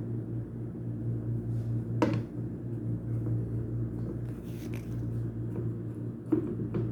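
Workshop knocks and clicks from repair work on a jammed washing-machine motor: one sharp click about two seconds in and a few taps near the end, over a steady low hum.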